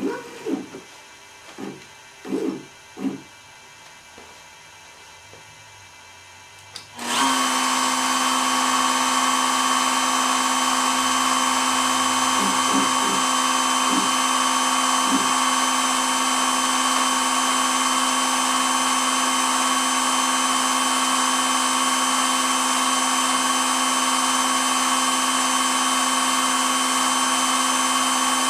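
CNC router spindle switching on about seven seconds in and running at a steady speed with a constant whine.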